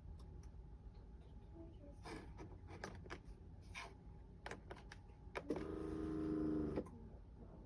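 Keurig K-Duo Plus coffee maker brewing a carafe: a faint steady low noise with scattered clicks, and a buzzing hum lasting just over a second near the end.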